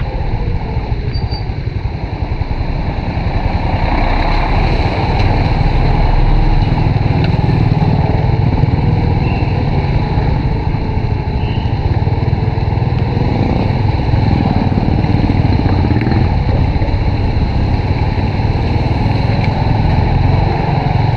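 Honda RSX 110 underbone motorcycle on the move, its small single-cylinder four-stroke engine running under heavy wind rumble on the microphone. The engine note slowly rises and falls, and the noise grows louder a few seconds in.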